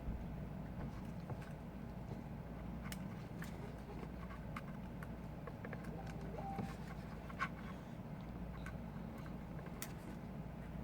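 Light, scattered clicks and taps of small repair tools and parts being handled on a phone being taken apart, one a little sharper about seven seconds in, over a steady low hum.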